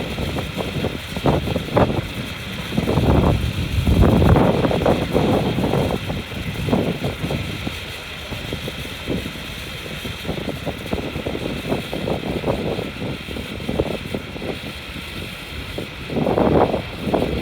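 Vehicle engines running and passing, swelling and fading irregularly, with scattered knocks and clatter over a steady high hum. The loudest swells come about three to five seconds in and again near the end.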